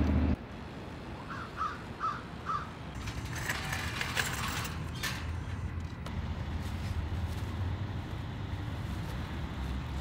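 A bird calls four times in quick succession about a second in, over a steady low rumble of traffic and engines. A few light rattles and knocks follow in the middle.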